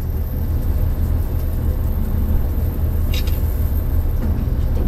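Diesel railcar running slowly along the track, a steady low rumble of engine and wheels heard from inside the front car, with a brief hiss about three seconds in.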